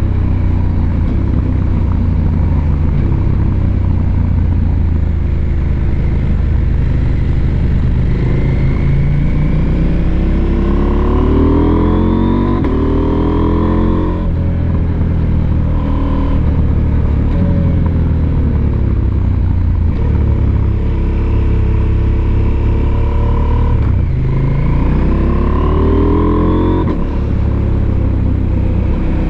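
Husqvarna Norden 901's 889 cc parallel-twin engine on the move, pulling hard twice with the pitch climbing and then dropping away, over a steady low rumble.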